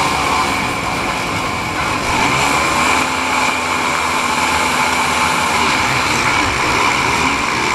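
Motocross bikes racing, several engines running at high revs together in a steady, loud din.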